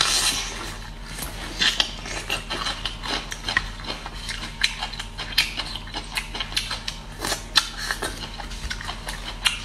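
Close-up biting and chewing of chili-dressed bamboo shoots: a run of crisp, irregular crunches and wet mouth sounds, a few sharper bites standing out, over a faint low hum.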